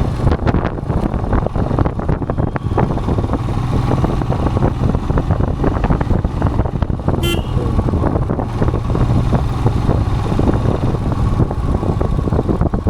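Royal Enfield Himalayan's single-cylinder engine running steadily while riding, with a short horn toot about seven seconds in.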